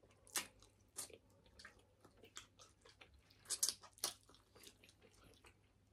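Faint chewing and wet lip smacks from people eating rice and meat with their fingers, as short irregular mouth clicks with a louder cluster a little past halfway.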